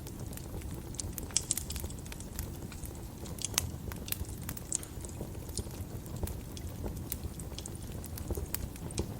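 Wood fire crackling: irregular sharp pops and snaps over a low steady rumble of the flames, with the loudest pops about a second and a half and three and a half seconds in.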